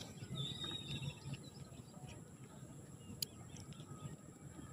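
Faint outdoor ambience with a short, high bird call about half a second in, and a few light clicks later on.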